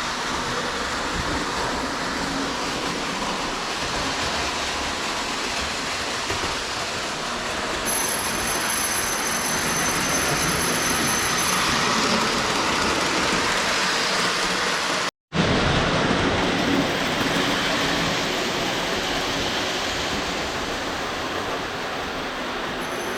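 Lionel 226E pre-war toy steam locomotive and its cars running around three-rail O-gauge track: a steady rumbling clatter of wheels and motor. The sound cuts out completely for an instant about 15 seconds in.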